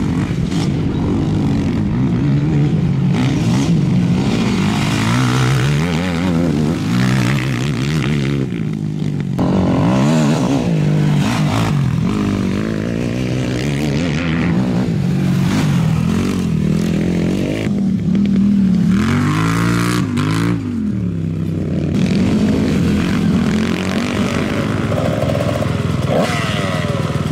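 Several racing quad bike engines revving up and down, their pitches rising and falling and overlapping as the machines accelerate and back off.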